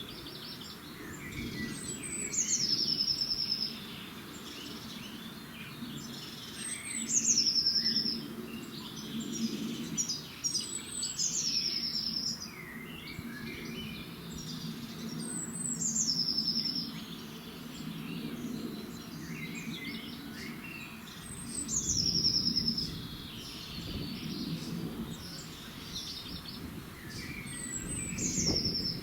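Birds singing at dawn: one bird repeats a high song phrase, a falling note that ends in a short trill, about every five seconds, while other birds chirp between its phrases. A low steady hum runs underneath.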